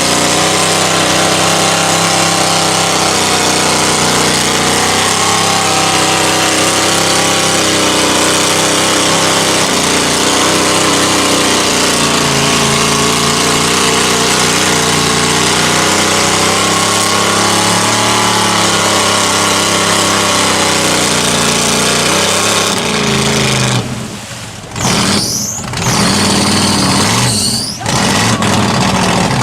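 Mud bogging truck engine running hard at high revs through the mud pit. Near the end the throttle is lifted and blipped several times, with the revs dropping and climbing again.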